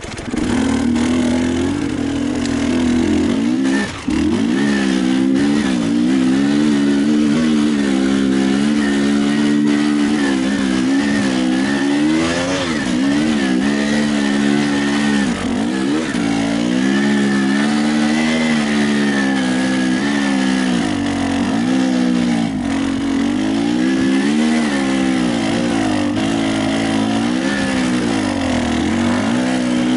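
Enduro motorcycle engine running and revving up and down over and over, its pitch rising and falling every second or two under constant throttle changes, with a brief dip about four seconds in.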